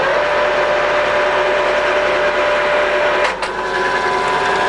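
Colchester Mascot 1600 centre lathe running steadily at about 278 rpm, its headstock gears whirring with a steady whine. A short click about three seconds in, after which the pitch of the whine changes.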